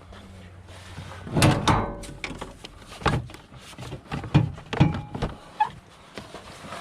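A handful of separate knocks and clunks, the loudest about a second and a half in with a brief ringing tone after it.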